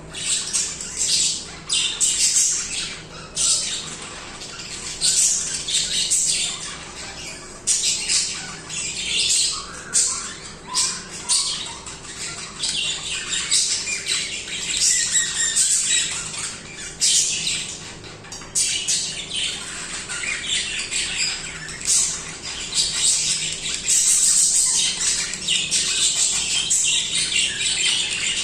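Several budgerigars chirping, squawking and warbling without a break, in quick, overlapping high-pitched calls.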